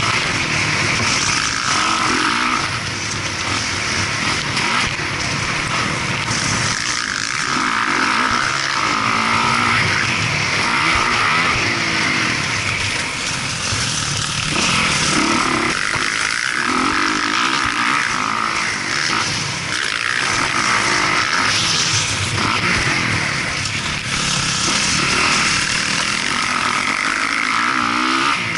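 Motocross dirt bike engine revving up and falling back again and again, as it accelerates and shifts between throttle openings over the track.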